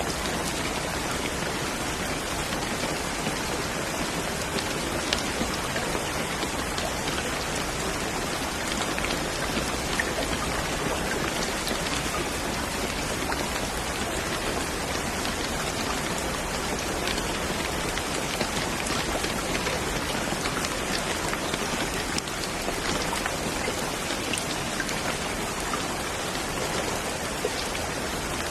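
Steady rain falling, an even hiss with scattered droplet ticks.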